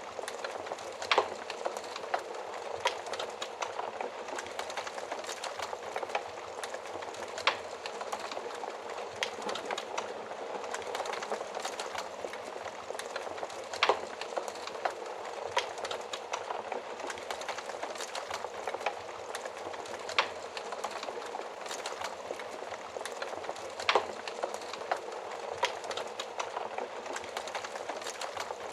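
Wood fire burning in a stove: a steady hiss of flames with irregular sharp crackles and pops every second or two.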